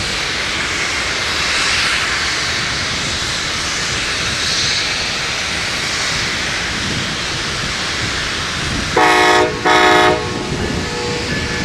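Amtrak Cascades passenger train running past with a steady rushing noise; about nine seconds in, its multi-tone horn gives two short blasts.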